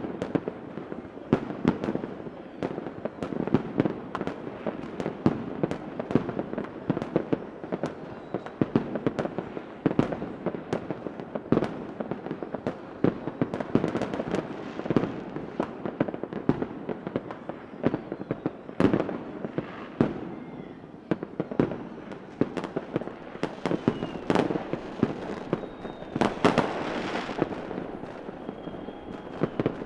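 Fireworks going off continuously: many overlapping bangs and crackles over a rumble, with a few faint whistles near the end.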